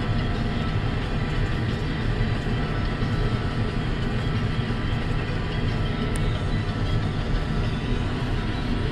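Combine harvester running steadily while harvesting: a continuous engine and threshing-machinery drone with several steady whining tones over it.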